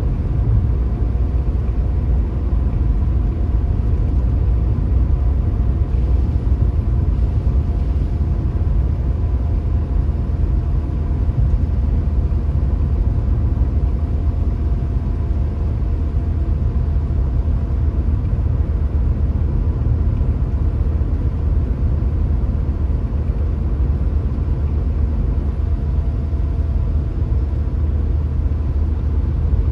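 A car driving steadily: a continuous low rumble of road and engine noise, with a faint steady whine above it.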